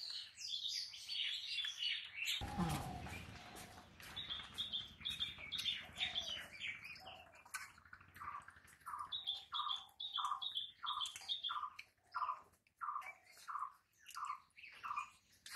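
Birds chirping, with a brief burst of noise about two and a half seconds in. From about eight seconds in, a bird gives a regular run of repeated calls at about two a second.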